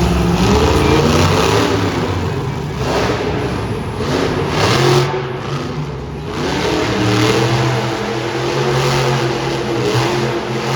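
Mega Rex monster truck's engine revving hard and unevenly while it spins donuts, its pitch rising and falling with the throttle, with short dips about a third and half way through.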